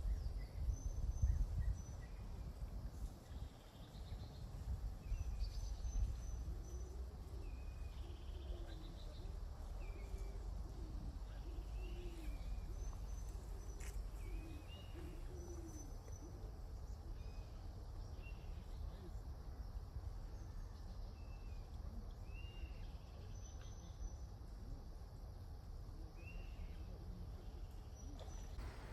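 Outdoor ambience of short, scattered bird chirps over a low rumble of wind on the microphone, the rumble heavier in the first few seconds.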